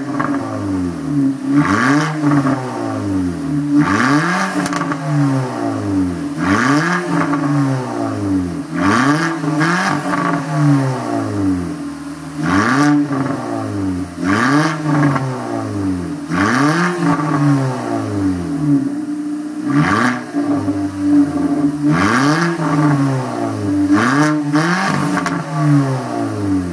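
Seat Arosa 1.0-litre four-cylinder engine with a homemade straight-pipe exhaust, blipped repeatedly from idle: a rev roughly every two seconds, each rising in pitch and falling back to idle.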